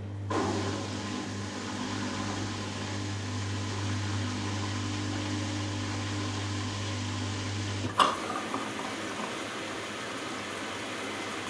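Hoover Dynamic Next washing machine's drain pump humming steadily while water rushes and gurgles through it as the drum empties. About eight seconds in, the pump cuts out with a click and water keeps rushing as the machine fills for the first rinse.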